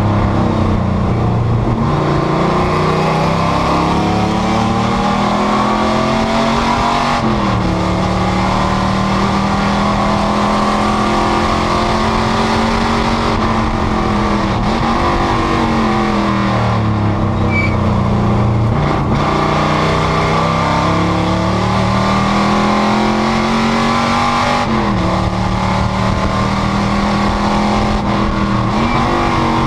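Panoz GTS race car's V8 engine under hard acceleration and braking around a road course. The engine note climbs steadily, then drops sharply and climbs again several times as the car shifts gears and slows for corners.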